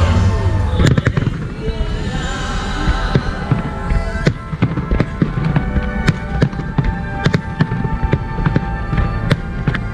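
Fireworks salute: many sharp bangs and crackles in irregular succession, with music playing underneath.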